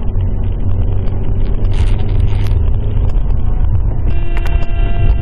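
Steady low rumble of a car's engine and road noise heard from inside the cabin. A steady pitched tone joins for about a second near the end.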